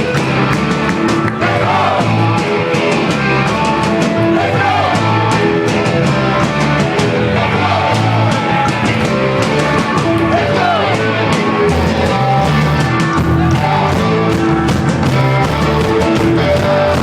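Live rock music: a band playing loud with electric guitars, drums and singing.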